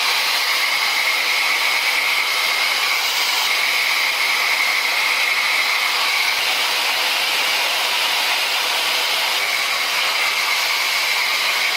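Hand-held hair dryer running, blowing on damp hair: a loud, steady rushing hiss with a faint high whine in it.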